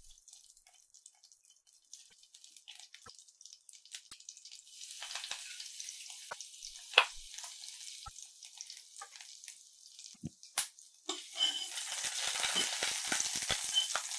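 Pressed garlic sizzling in melted butter in a stainless steel pan, with scattered pops and crackles. The sizzle comes in about five seconds in and grows louder near the end as a spoon stirs the pan.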